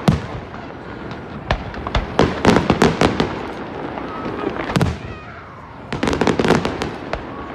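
Aerial firework shells bursting in a display: quick clusters of sharp bangs and crackles, loudest in the middle and again towards the end, with a quieter stretch between.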